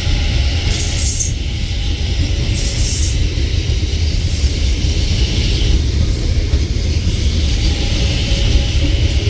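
CSR Mitsubishi electric multiple-unit train running on the track: a steady low rumble with short hissy bursts every second or two.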